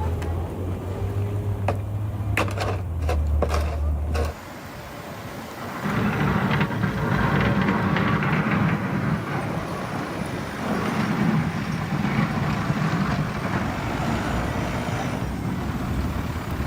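A steady low engine hum with a few clicks, then a louder vehicle engine running with road noise, rising and falling.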